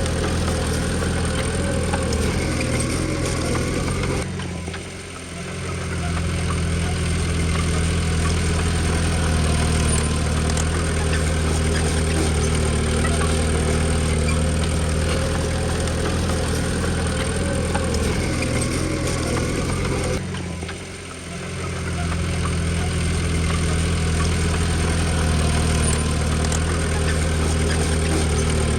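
Komatsu D20P bulldozer's diesel engine running steadily, the sound dropping away briefly twice, about four seconds in and again about twenty seconds in.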